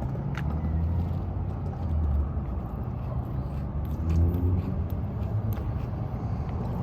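Low, steady rumble of a car, with a few faint clicks over it.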